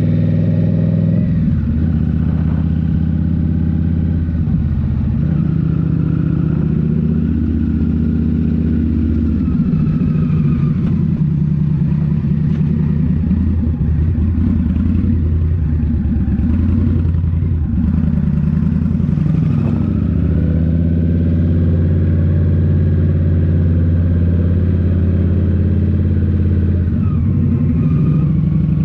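Indian Scout Rogue's 1133 cc liquid-cooled V-twin, breathing through a Rinehart slip-on exhaust, running under way. Its note falls and rises again several times with the throttle and gears, otherwise holding steady.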